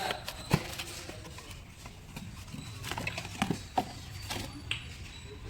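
A series of irregular knocks and clicks, the loudest about half a second in, over a faint low rumble.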